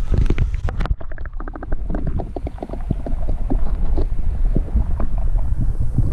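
Wind buffeting the microphone, a heavy low rumble, with irregular knocks. A quick run of clicks comes about a second in.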